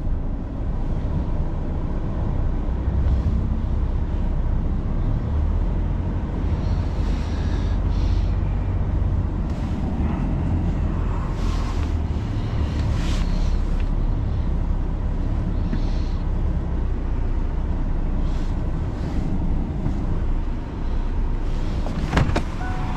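A truck on the move: a steady low engine and road rumble, with a few faint short hisses and clicks.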